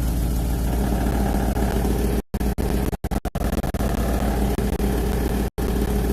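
Porsche 911 GT3 RS's naturally aspirated flat-six idling steadily just after a cold start. The sound cuts out abruptly for an instant a few times.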